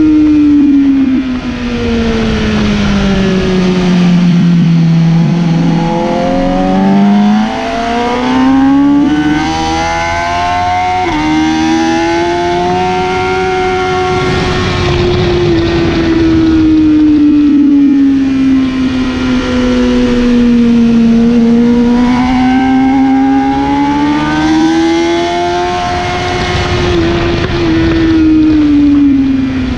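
BMW S1000RR's inline-four engine running at track speed, heard from on board. Its pitch falls for the first few seconds, climbs again around seven seconds in, then swells and sags slowly with the throttle, over a steady rush of wind.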